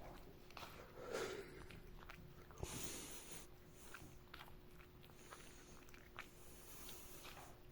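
A cat chewing and biting a piece of grilled bonito: faint, irregular wet clicks and smacks.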